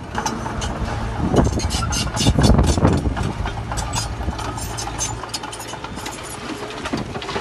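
Heavy diesel construction machine running, with a louder stretch of clattering and knocking about one to three seconds in; its low engine hum drops away about five seconds in.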